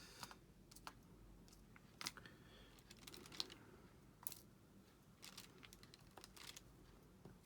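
Faint, scattered light clicks and taps of diamond-painting work: a drill pen picking small resin drills from the tray and pressing them onto the sticky canvas, at an irregular pace.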